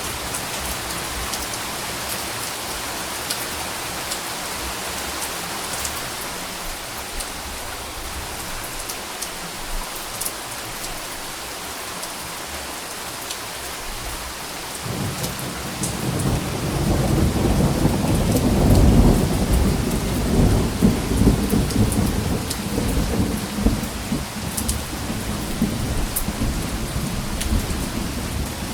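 Steady rain hissing, with scattered drop ticks. About halfway through, a long, low rumble of thunder builds, peaks a few seconds later and keeps rolling.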